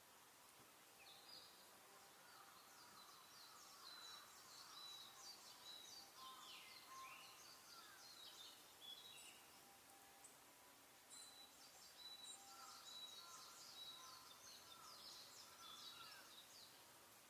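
Faint songbirds chirping and trilling: many quick overlapping calls, a few sweeping down in pitch, in two long busy stretches with a short lull about ten seconds in.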